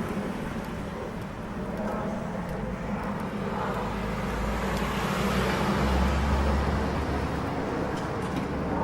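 Street ambience with steady traffic noise and a vehicle passing, loudest about five to seven seconds in.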